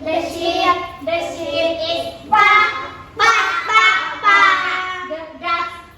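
A child's voice imitating a horse's neigh in a string of high, sing-song syllables, one louder rising-and-falling call about two and a half seconds in.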